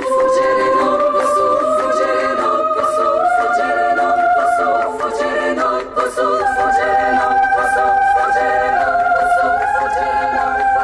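Women's choir chanting a cappella in Latin, holding long notes that step between pitches, over regular claps about twice a second.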